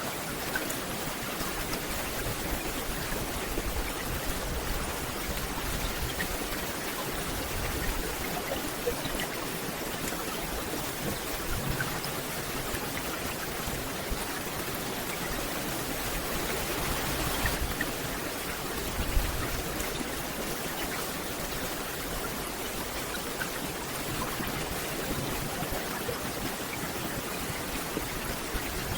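Steady rain falling in a forest, an even hiss with scattered single drops ticking through it.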